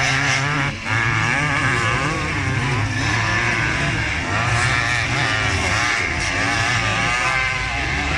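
Several classic motocross motorcycles racing, their engines revving up and down over one another, with a brief drop in loudness about a second in.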